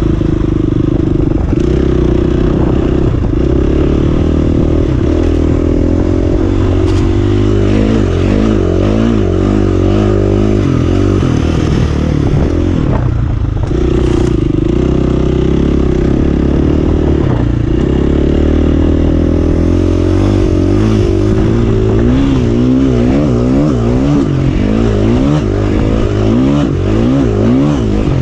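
Single-cylinder four-stroke dirt bike engine running under way, at a steady pitch in places and elsewhere rising and falling quickly again and again as the throttle is worked. Briefly drops off the throttle a little before halfway.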